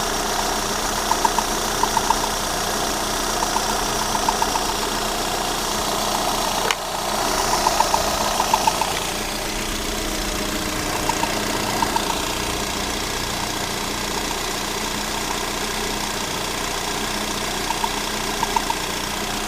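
Lada Granta's 126 (VAZ-21126) 16-valve engine running steadily after an overhaul, with short bursts of quick light knocks every few seconds and one sharp click about seven seconds in. The owner feels the camshaft is scuffing in its journals.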